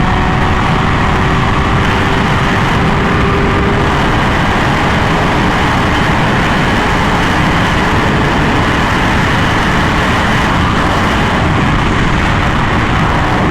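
Honda Fireblade RR-R SP inline-four engine with an SC Project exhaust, pulling hard at high speed on the open road under a steady, loud rush of wind noise. The engine's tone sinks slightly over the first few seconds, then is mostly buried by the wind.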